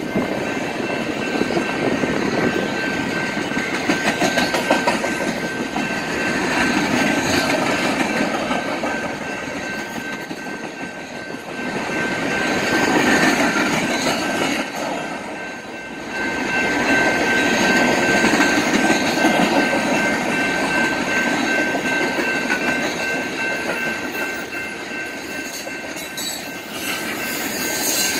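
Freight cars of a mixed manifest train rolling past a grade crossing, wheels clacking over the rails, the noise swelling and easing as the cars go by. A steady high-pitched tone sits over it.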